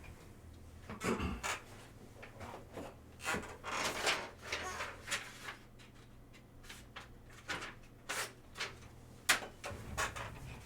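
Faint, scattered rustles and light knocks, one every second or so, from trading cards and packaging being handled on a table, over a low steady hum.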